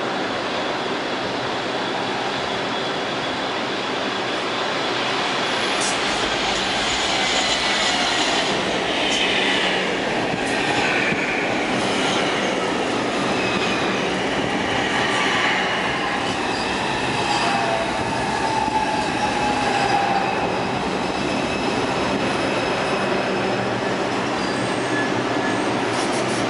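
R142 subway train on the 5 line running through the station, with wheel squeal and rail clatter. It grows louder about five seconds in, and high whining tones slide downward through the middle of the passage.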